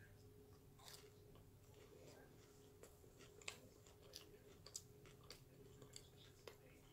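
Faint close-up chewing of a deep-fried corn dog, with soft wet mouth clicks at irregular intervals.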